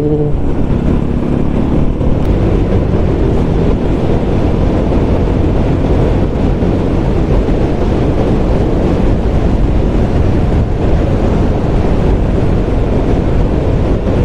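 Steady, heavy wind rush on the microphone of a motorcycle moving at road speed, with the motorcycle's engine drone faintly beneath it.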